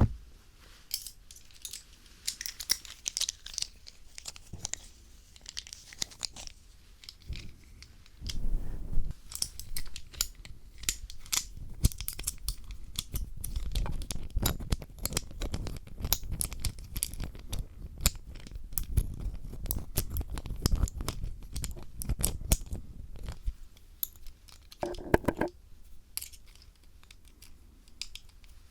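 Phillips screwdriver used for ASMR ear cleaning, its metal tip scraping, tapping and rubbing against a microphone in irregular scratches and clicks, heavier and rumbling through the middle.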